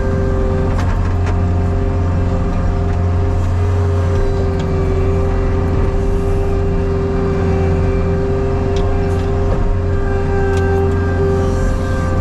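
Skid steer loader's diesel engine running steadily under throttle, with a few faint clicks and clanks from the machine as it works the soil.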